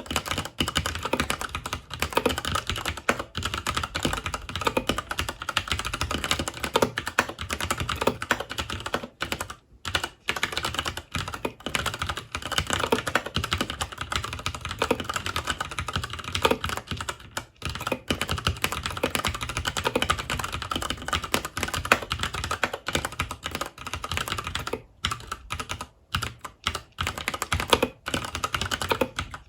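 Fast continuous typing on a FILCO Majestouch 2 tenkeyless mechanical keyboard with Cherry MX Brown switches: a dense run of keystroke clacks, broken by a short pause about ten seconds in and again near the end.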